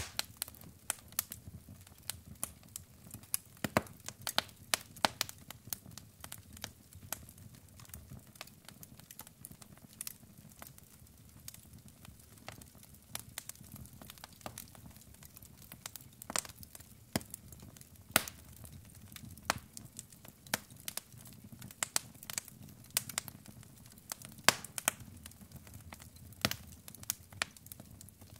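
Wood fire in a fireplace crackling, with irregular sharp pops and snaps over a soft low rush of the flames.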